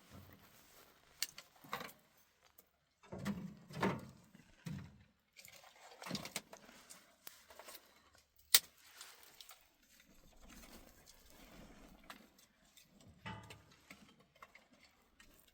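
Irregular knocks, bumps and clatter of objects being handled, with one sharp knock a little past halfway.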